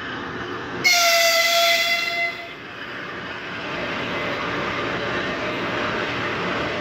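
An electric freight locomotive sounds one horn blast of about a second and a half, a single pitched note, a little under a second in. After it the noise of the approaching train swells steadily.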